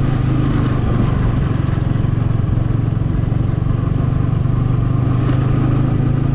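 Motor vehicle engine running at a steady pace while driving along a road, a continuous low drone with road noise.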